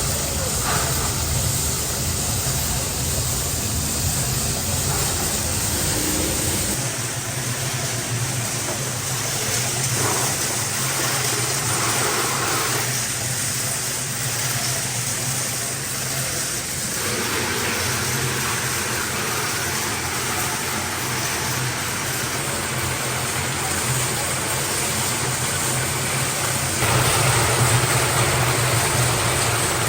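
Workshop machinery running steadily with a low motor hum and mechanical noise; its sound shifts about seven seconds in and again near the end.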